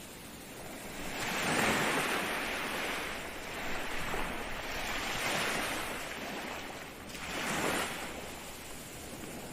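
Ocean surf: waves breaking and washing in, in three surges over a steady background wash. The first surge is the loudest and the last is short, near the end.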